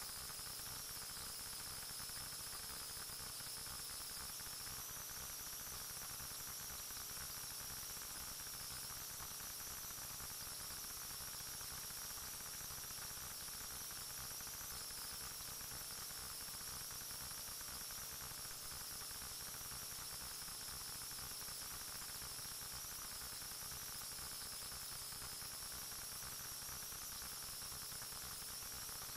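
Steady static hiss with a constant high-pitched whine and a faint low hum, unchanging throughout, with no distinct events.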